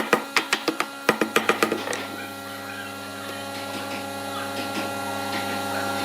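Rapid, regular clicking, about five clicks a second, stops after a second and a half. An electric motor starts humming steadily about a second in.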